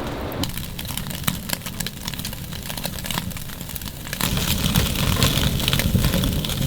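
Crackling and spitting from a wood stove as beef short ribs sear over the fire in a grill basket: irregular sharp cracks over a steady hiss. A low rushing noise grows louder about four seconds in.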